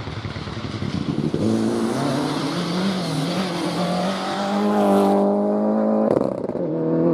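Rally car on a forest stage accelerating, its engine note rising and wavering, over a hiss that stops suddenly about five seconds in. About six seconds in the note breaks briefly, as at a gear change, then holds steady.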